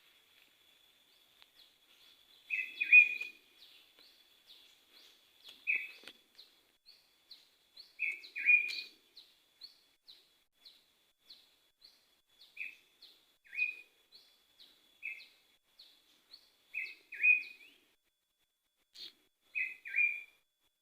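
Wild birds calling. One bird repeats short, high, falling notes about twice a second, while a louder, lower-pitched call comes mostly in pairs every two to three seconds, with a faint steady high tone underneath.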